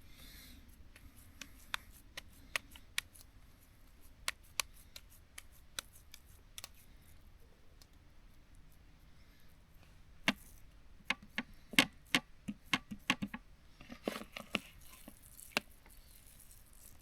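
Cooking utensils being handled during hamburger preparation: scattered light clicks and taps, then a cluster of louder knocks about ten to fifteen seconds in.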